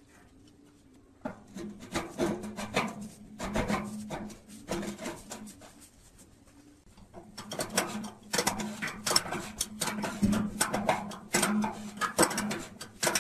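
Irregular scraping and clicking from hand work, in two spells with a short lull between, over a steady low hum.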